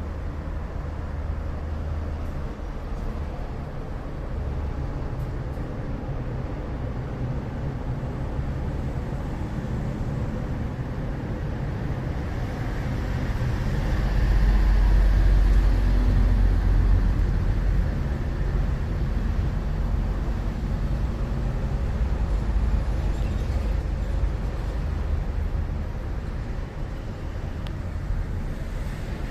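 Steady low rumble of road traffic, swelling for a few seconds around the middle as a vehicle passes.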